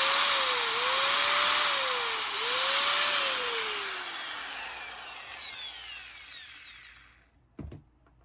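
Angle grinder's electric motor running with its speed surging up and down about once a second, then switched off and winding down to a stop over about four seconds. A single knock comes near the end.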